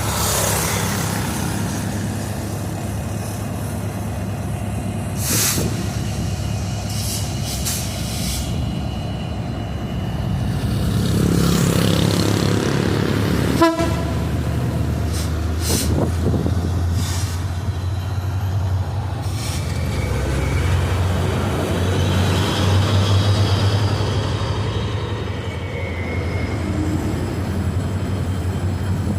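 A Babaranjang long coal train rolling past: a steady rumble of wagons on the rails, with scattered sharp clanks.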